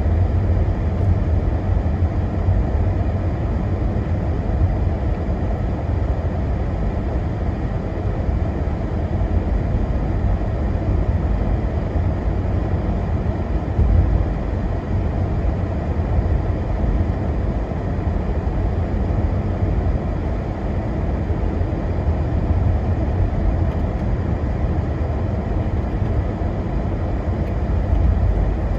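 Car driving: a steady low rumble of road and engine noise, heard from inside the cabin.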